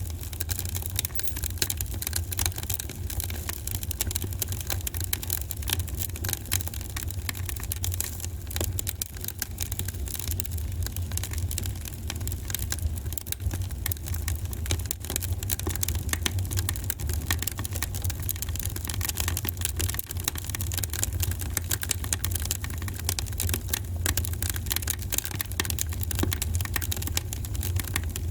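Wood fire in a fireplace crackling, with dense irregular small pops and snaps over a steady low rumble.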